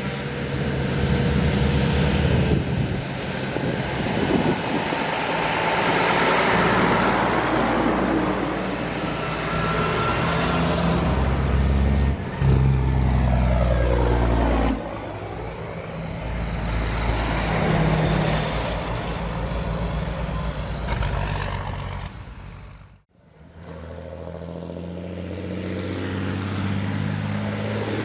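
Heavy truck engines running and pulling past, loud and continuous. Near the end the sound cuts out abruptly, then another truck engine is heard.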